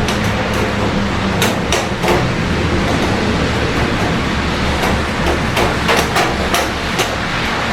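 Steady rain over a low hum of city traffic, with irregular sharp ticks of drops, clustered about a second and a half in and again in the last couple of seconds.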